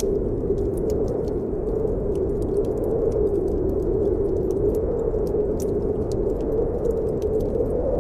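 Snowstorm wind blowing steadily with a low howl that slowly rises and falls in pitch, mixed with the scattered pops and crackles of a wood fire burning in a fireplace.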